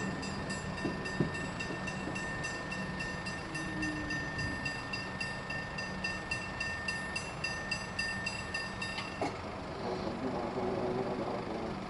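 Level crossing bells ringing in rapid, even strikes as a train passes, then cutting off about nine seconds in as the crossing clears.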